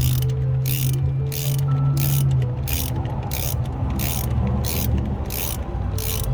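Hand ratchet wrench turning a bolt on the van: a steady run of ratcheting strokes, about one every two-thirds of a second, each a short burst of pawl clicking. A steady low hum runs underneath.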